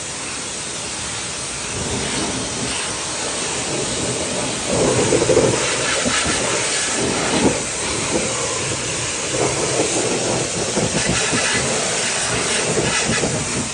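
Small electric pressure washer spraying water onto a truck: a steady hiss of spray, with louder uneven splattering from about the middle onward as the jet strikes the truck.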